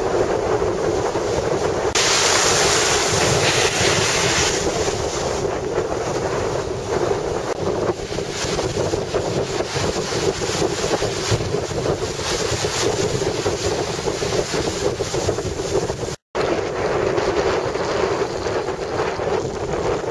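Strong wind buffeting the microphone over rushing surf, a steady loud rush that grows brighter for a couple of seconds early on. It cuts out completely for a moment about sixteen seconds in.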